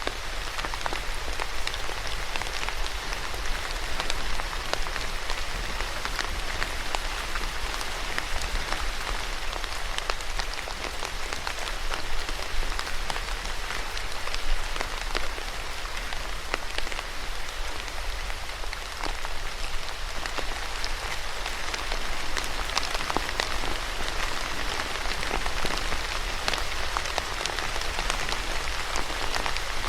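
Steady rain falling on a surface, an even hiss dotted with the sharp ticks of individual drops hitting.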